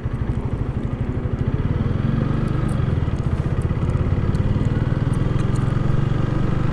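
Honda Rebel 300's single-cylinder engine running while riding, with a fast pulsing at first that smooths out and grows a little louder from about two seconds in.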